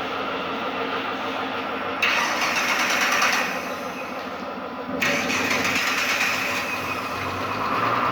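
Car engine being jump-started: the starter motor cranks in two attempts, about two seconds in and again at about five seconds. The engine catches near the end and runs.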